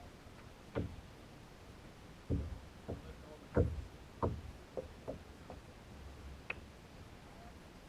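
About nine short, irregular knocks and thumps, loudest in the middle: a kayak paddle bumping against the kayak's hull.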